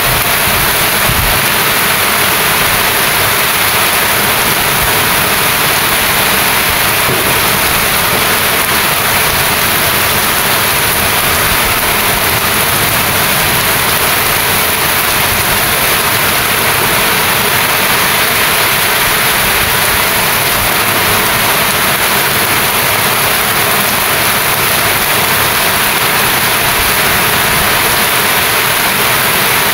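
Steady rain falling, a loud, even hiss with no breaks.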